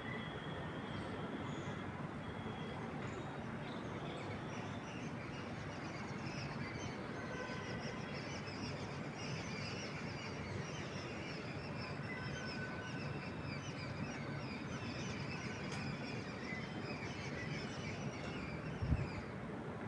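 Many small birds chirping, dense and continuous, over a steady low rumble. A single low thump comes near the end.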